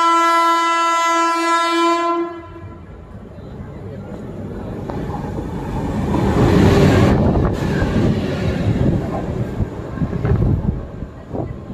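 Locomotive horn holding one steady blast that cuts off about two seconds in, followed by an Indian Railways express train rushing past at speed. Its rumble builds to a peak midway and fades near the end.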